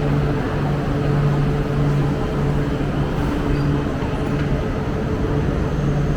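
Running noise inside the lower-deck cabin of an E4 series Shinkansen: a steady rumble and hiss with a low hum that swells and fades every second or so.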